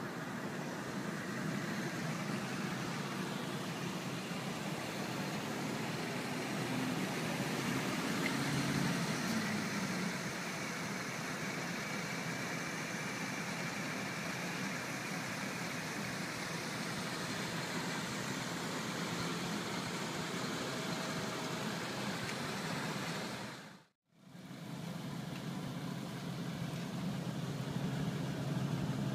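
1985 Pontiac Parisienne Safari wagon's engine idling steadily, cutting out for a moment near the end.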